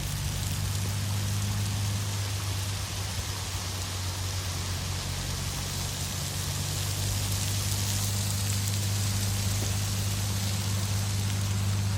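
Heavy rain falling, an even hiss, over a steady low hum.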